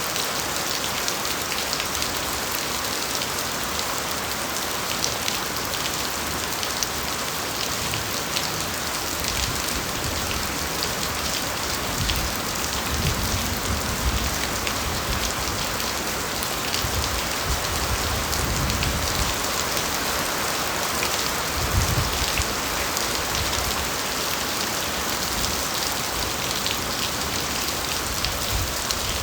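Steady rain falling on a bamboo forest, with many separate drop hits in an even hiss. A few low rumbles come in around the middle and again a little later.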